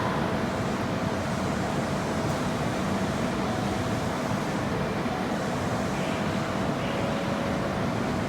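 Steady rumble and hum of an Osaka Metro subway train at a station platform, with a faint steady tone running through it.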